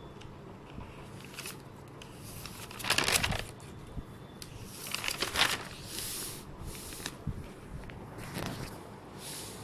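Several short rustling, crinkling bursts, the loudest about three seconds in and again about five seconds in.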